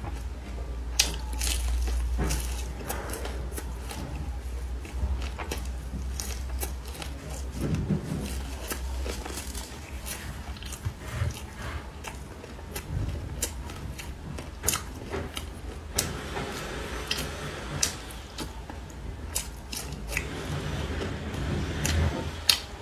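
Close-up chewing and biting of a homemade shredded potato and carrot pancake with egg, with many short crunches and mouth clicks scattered through.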